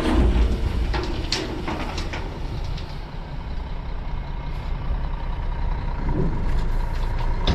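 Heavy diesel engines running steadily, the CAT 279D compact track loader's close by, with a truck engine alongside. Several sharp metal clanks and knocks come in the first two seconds, over a faint steady whine.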